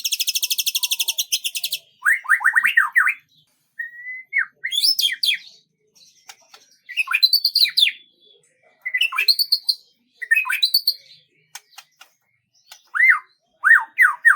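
Songbird singing: a fast, high trill, then a series of short phrases made of quick down-slurred whistled notes, with brief pauses between them.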